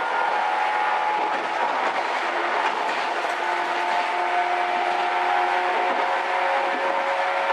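JNR 113 series electric train's traction motors running hard with a loud growl: several steady humming tones over the rumble of the moving train, shifting a little in pitch about halfway through.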